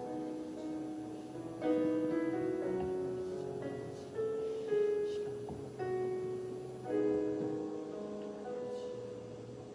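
Slow, soft piano accompaniment: chords struck every couple of seconds and left to ring and fade, playing under a time of silent prayer.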